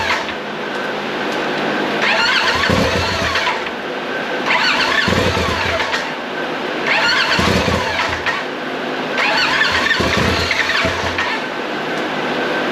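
Freshly rebuilt Polaris XP Turbo engine being cranked over by its starter in four short bursts of about a second each, roughly every two and a half seconds, with a squealing whine, not catching and running. These are the first cranks after the rebuild, turning it over to purge it out before trying a real start.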